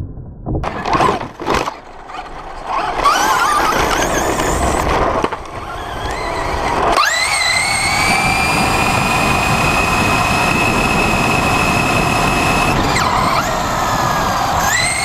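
Electric RC truck driving, its motor and gears whining over rattling and tyre noise. Short throttle bursts come first; about seven seconds in the whine rises sharply and then holds at a steady high pitch.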